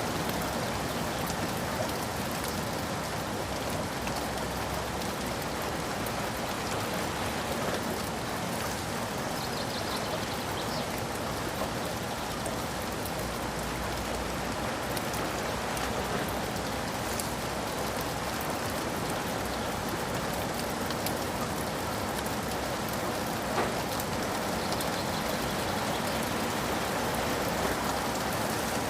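Steady rain falling, with scattered drops pattering on a surface and one sharper drop tick about two-thirds of the way through.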